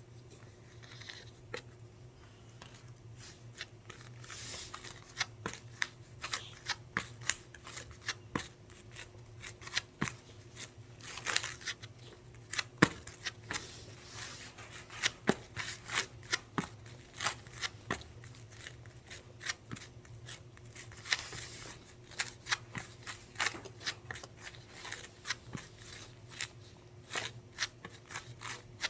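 Irregular light clicks, taps and short rustles of small objects being handled close to the microphone, over a faint steady hum.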